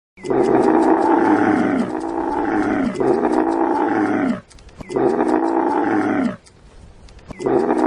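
Camel grunting: a series of long, drawn-out calls with short breaks between them, each dropping in pitch as it ends.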